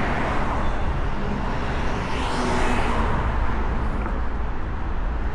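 Street traffic: a steady rumble of road vehicles, swelling briefly about two and a half seconds in as one passes close by.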